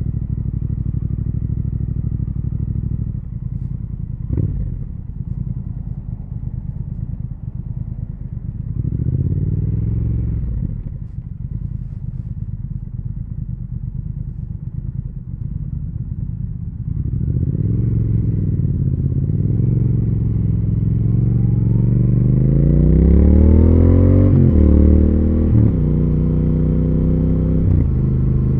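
Triumph Speed Twin 1200's parallel-twin engine and exhaust on the move: low and steady at first with a short rev about nine seconds in. From about seventeen seconds it pulls harder, its pitch climbing steadily and then dropping sharply at gear changes near the end.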